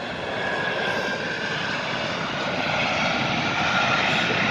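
Jet airliner's engines running as it taxis past, a steady rush with a faint high whine, slowly growing louder. The spotters take the jet for a McDonnell Douglas MD-90.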